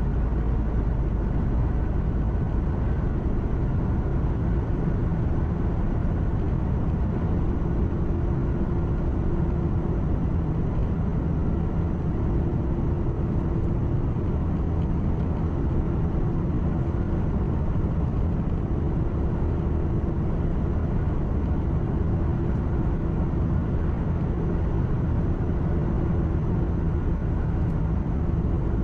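Steady engine drone and road rumble of a truck, heard inside the cab while it cruises at an even speed, with a faint constant hum.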